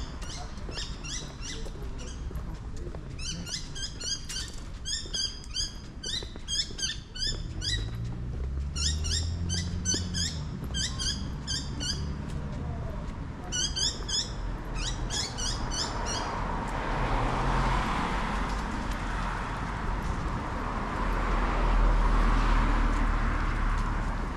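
Birds calling in quick series of short, high chirps for roughly the first fourteen seconds. Then road traffic swells and fades twice as cars pass.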